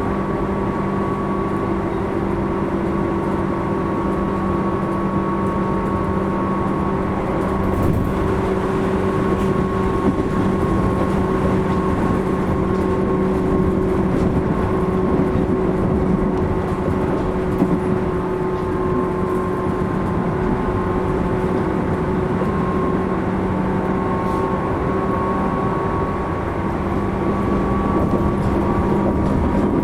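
Running noise inside a Tobu 10000 series electric train car under way: a steady rumble of wheels on rail with a constant low hum and a higher whine. A few faint clicks come through along the way.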